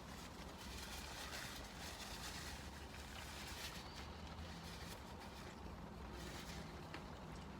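Person chewing a bite of a fried chicken sandwich with soft, irregular mouth sounds, over a low steady rumble.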